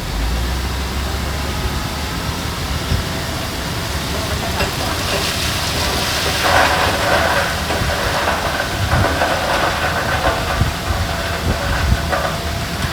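Heavy diesel earthmoving machinery running steadily, with a louder hissing rush from about five to eight seconds in.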